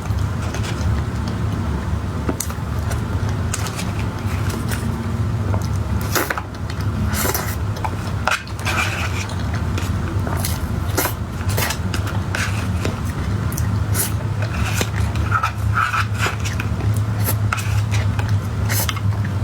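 Close-up eating sounds: irregular mouth clicks and smacks with utensils scraping and tapping on a dish, over a steady low hum.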